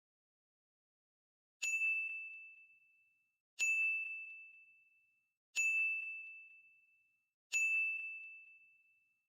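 Four identical bell-like dings, starting about a second and a half in and repeating every two seconds; each is a single high ring that fades away over about a second and a half.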